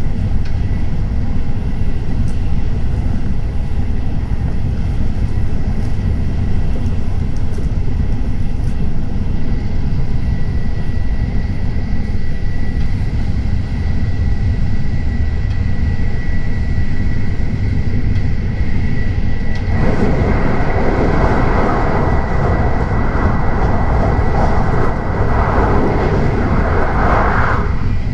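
Tokaido Shinkansen train running at speed, heard inside the cabin as a steady low rumble with a faint high whine. About two-thirds of the way in, a louder rushing hiss joins for roughly eight seconds, then stops suddenly.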